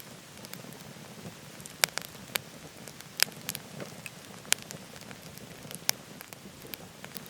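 Wood fire burning in a wood stove, crackling, with a scatter of sharp pops (about half a dozen loud ones) over a steady rushing hiss.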